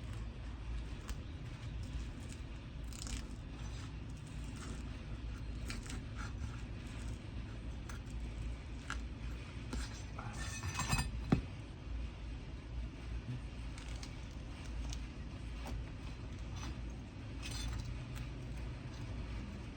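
A prying tool clicking and scraping against asphalt shingles as their tar-adhesive seal is worked loose. A louder scraping stretch comes about ten seconds in and ends in a sharp click. A steady low rumble runs underneath.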